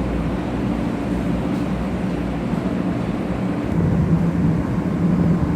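Steady hum and rush of a 500 series Shinkansen train close by, with low tones that rise slightly about two-thirds of the way through.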